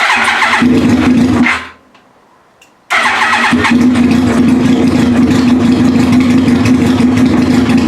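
Yamaha YZF-R1 inline-four being cranked on its electric starter in two attempts: a short one of about a second and a half, then after a pause a long one of over five seconds. The engine is trying to fire but does not catch.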